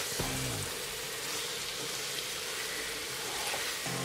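Spiced mixed vegetables and paneer frying in oil in a non-stick pan on a low flame, a steady sizzle as they are stirred with a wooden spatula.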